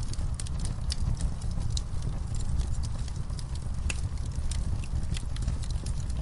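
Wood fire burning in a fireplace, with a steady low rumble and irregular sharp crackles and pops, several a second.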